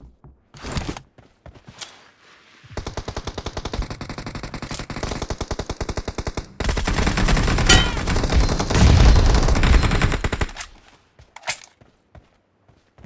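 Video game automatic gunfire: rapid, evenly spaced shots starting about three seconds in, turning louder and denser around the middle, then stopping, with one more short burst near the end.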